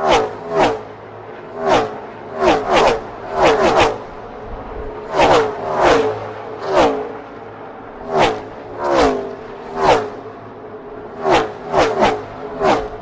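NASCAR Gen 6 stock cars' V8 engines passing close by at racing speed, more than a dozen one after another in bunches, each with a sharp drop in pitch as it goes past.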